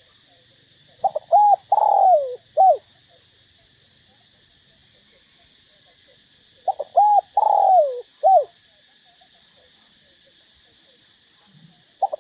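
Spotted dove cooing: two phrases about six seconds apart. Each phrase is two short coos, a long drawn-out coo that falls in pitch, and a short final coo.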